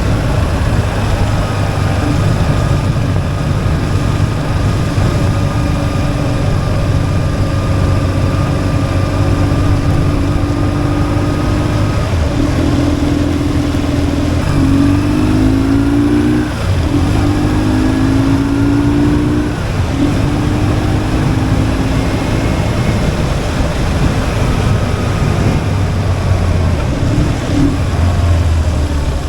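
BMW R1150GS's boxer twin running under way, with wind rushing over the microphone. A little past halfway the engine note climbs under acceleration and breaks off at gear changes, then settles back to a steady cruise.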